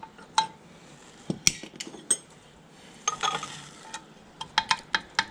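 Small metal parts and tools clinking and clicking as they are handled: scattered sharp clicks, a cluster about three seconds in and several quick ones near the end.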